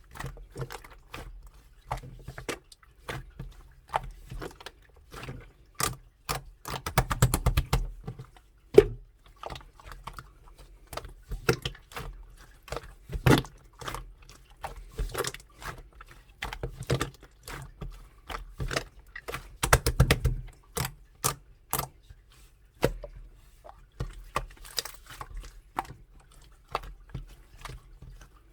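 A soft, glossy slime being squished and poked by hand, giving many small wet clicks and pops from trapped air bubbles, with quick rattling runs of pops twice.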